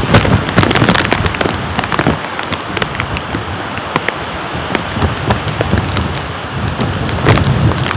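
Heavy rain falling steadily, with many sharp, separate drop impacts close by over the hiss of the downpour.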